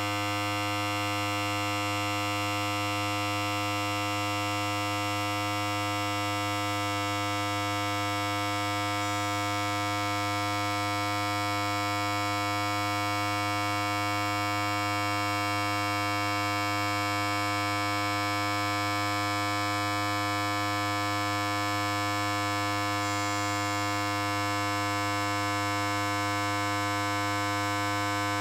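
Electric hair clipper running continuously: a steady, even buzz with a strong low hum.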